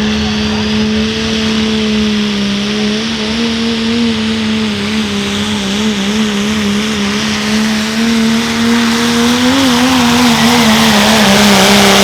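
Turbocharged diesel pickup truck pulling a sled, its engine held at high revs under full load. The pitch holds steady, then begins to waver up and down about three seconds in.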